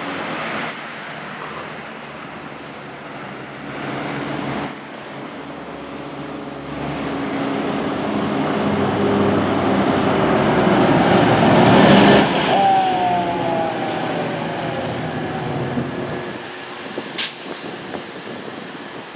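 Fire engine's diesel engine approaching and passing close by, growing louder to a peak about twelve seconds in, then its pitch drops as it moves away. A single sharp click near the end.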